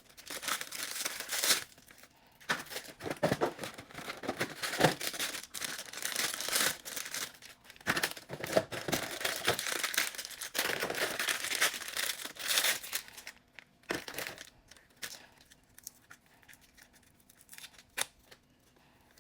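Ice cream wrappers being torn open and crinkled, in repeated noisy rustles that die down about two-thirds of the way through, leaving a few faint clicks.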